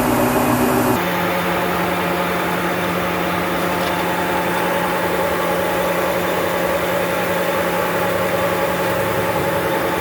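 Sawmill machinery running with a steady hum. About a second in, the sound changes abruptly to another steady machine drone.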